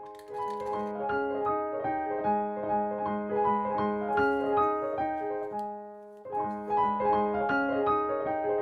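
Background piano music: a gentle, flowing piano piece of evenly spaced notes over a held low note, with a brief pause about six seconds in before it picks up again.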